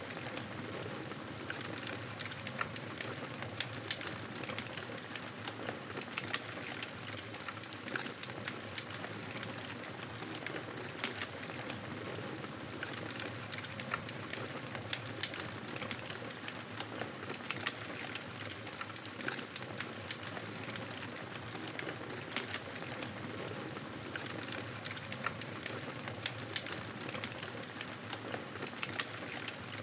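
Fire in a fireplace crackling steadily: many irregular sharp pops and snaps over a soft continuous hiss.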